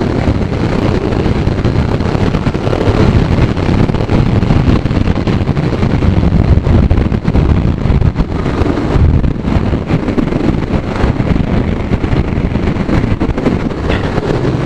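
Heavy wind buffeting the microphone while riding a motorcycle at speed, a loud steady rush with the engine buried beneath it.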